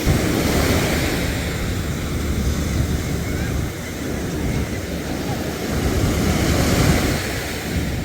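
Ocean surf washing in at the shore, swelling and easing, with wind buffeting the microphone as a low rumble.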